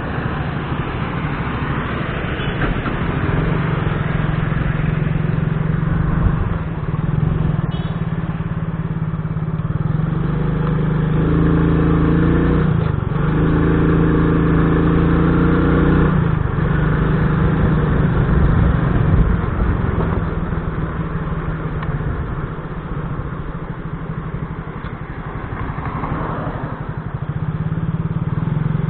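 Motorcycle engine running steadily while riding, with road and wind noise. The engine note grows stronger and holds a steady pitch for a few seconds around the middle.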